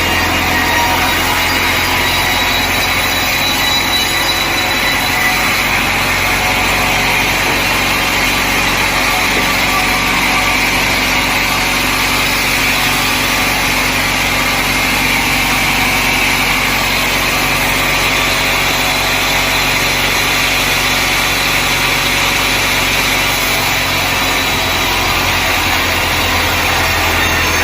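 Sawmill machinery running steadily, a constant engine-like hum that does not change.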